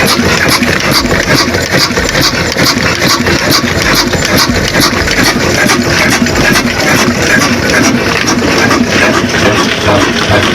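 Big old desi diesel engine running steadily and loudly, with an even, rapid beat from its firing strokes.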